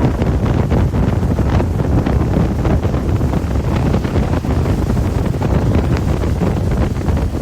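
Inside a moving bus: a steady low rumble of engine and road noise at an even level.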